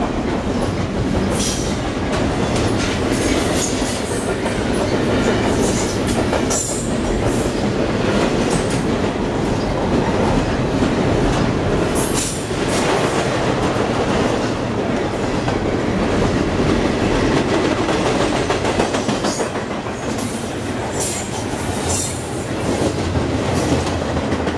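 Double-stack intermodal freight train's container well cars rolling past: a steady loud rumble and clatter of steel wheels on rail, with a few brief high-pitched metallic sounds now and then.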